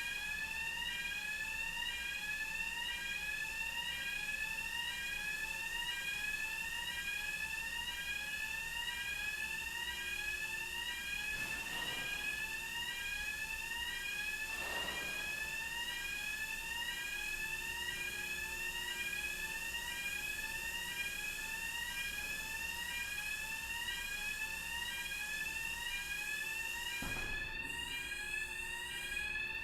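Warning alarm on a ferry's vehicle deck, a repeating electronic whoop rising in pitch about one and a half times a second, sounding while the vehicle ramp moves.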